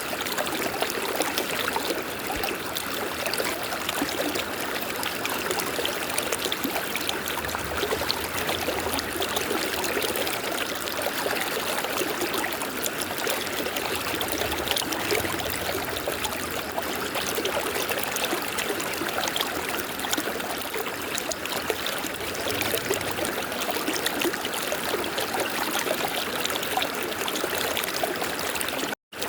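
River water flowing, a steady rushing and trickling that cuts out for an instant near the end.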